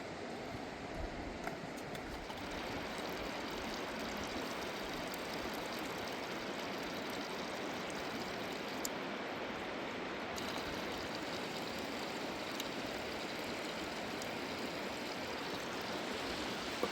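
Steady rush of a fast mountain river.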